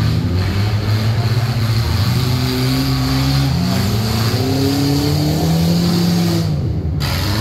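Enduro derby cars' engines running on a dirt track, one revving up in several rising sweeps over a steadier engine drone.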